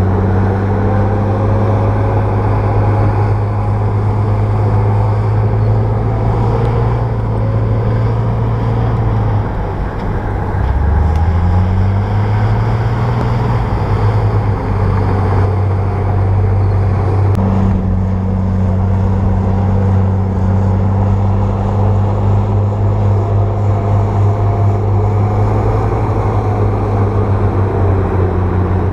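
Komatsu bulldozer's diesel engine working under load at steady high revs. Its pitch sags about ten seconds in and climbs back within a couple of seconds.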